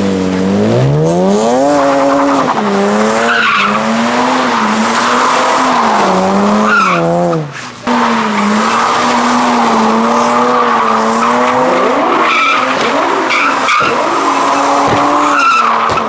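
A car spinning its tyres: the engine is held at high revs that rise and fall, with the tyres squealing. There is a brief break about halfway through.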